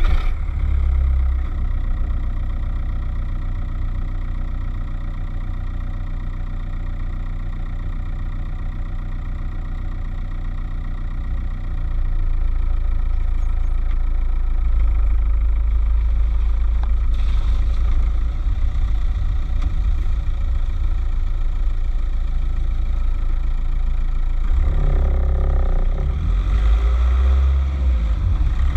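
Skoda Octavia 1.9 TDI four-cylinder turbodiesel running just after starting, a steady diesel clatter that grows louder about twelve seconds in.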